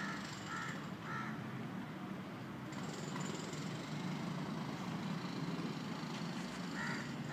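A bird calling in short repeated notes, three about half a second apart near the start and more near the end, over a steady low background rumble.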